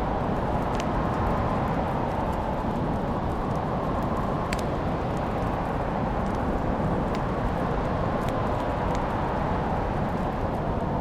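Wood fire crackling in a fireplace: a steady low rumble of flames, with a few sharp pops, several seconds apart.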